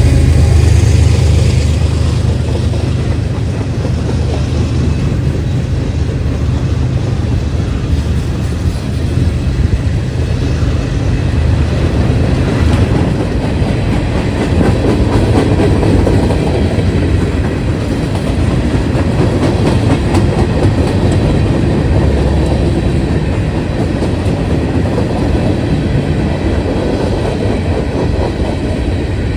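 A train passing close by: a locomotive's diesel engine drone at the start gives way within a few seconds to the steady rumble and clatter of railcars rolling past on the track.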